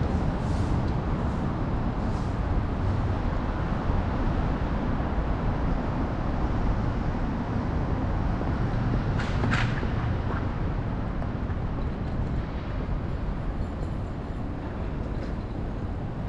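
Steady city road traffic, with rumble from the ride's wind on the microphone. A brief, sharp high sound cuts through about halfway through.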